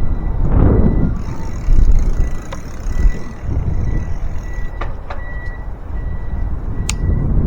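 Wind rumbling on the microphone and rolling noise from a bicycle being ridden, with a few sharp clicks and a faint high whine that comes and goes.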